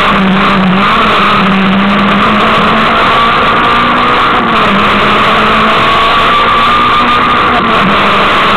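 Peugeot 306 S16 heard from inside the cabin at speed: its four-cylinder engine pulling steadily, with loud road and wind noise over it.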